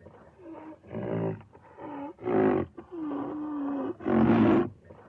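Rhinoceros calls: a run of deep, pitched calls about one a second, louder ones about two seconds apart with softer ones between, and one longer held call just after the middle.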